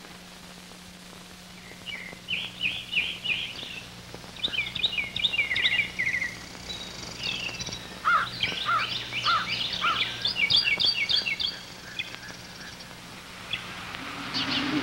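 Songbirds chirping and singing in quick, repeated trilled phrases, starting about two seconds in and fading out near the end, over a faint steady low hum.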